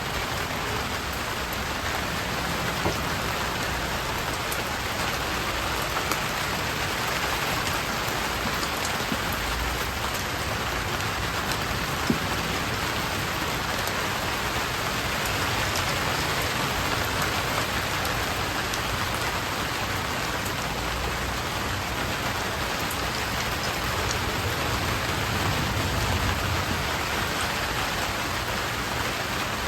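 Steady rain falling, an even hiss with a single sharp tick about twelve seconds in.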